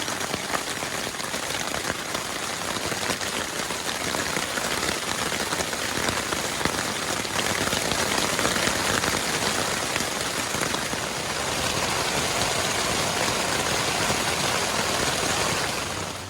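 Heavy rain falling steadily, a dense rush of close-spaced drop impacts.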